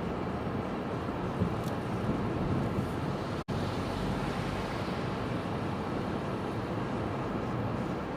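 Steady rushing noise of storm wind and rough sea, cut off for an instant about three and a half seconds in.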